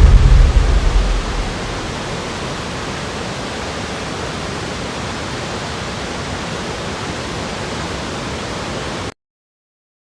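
Steady rushing of a waterfall: a loud, deep rumble at first that settles within a second and a half to an even hiss, then cuts off suddenly to silence about nine seconds in.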